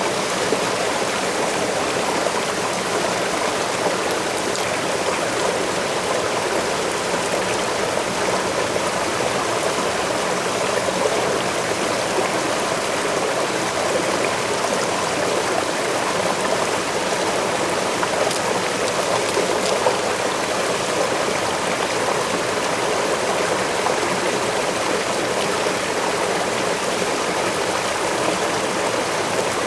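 Forest waterfall and the stream below it: water falling and rushing in a steady, even wash.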